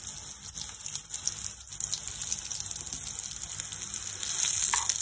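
Pieces of chana dal pitha sizzling as they shallow-fry in hot desi ghee in a pan: a steady crackling hiss.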